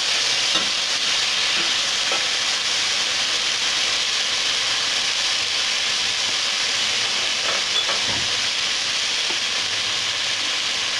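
Pieces of boiled chicken stir-frying in a hot pan with a steady sizzle, freshly dressed with soy sauce. A silicone spatula stirs and scrapes through them, with a few soft scrapes and taps.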